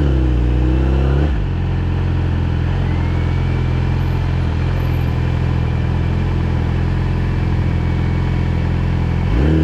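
Yamaha R6's inline-four engine holds a higher pitch for about a second, then drops to a low, steady idle. It revs up again near the end.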